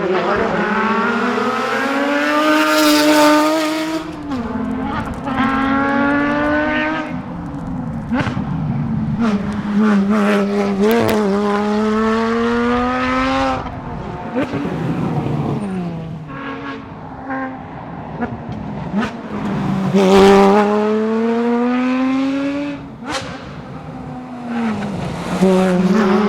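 Porsche Cayman GT4's 3.8-litre flat-six engine driven hard, revving up in several long rising sweeps that each drop back sharply as it shifts gear or lifts off, then climb again.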